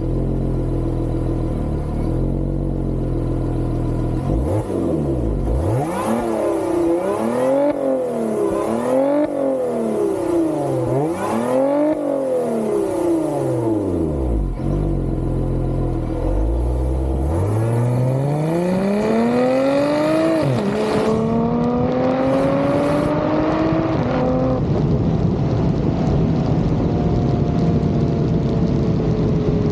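Lotus Emira's supercharged 3.5-litre V6 idling, then blipped to high revs about four times in quick succession. It then pulls hard with a long rising note, drops sharply at a gear change, climbs again and, after the throttle is lifted, falls slowly away under wind noise.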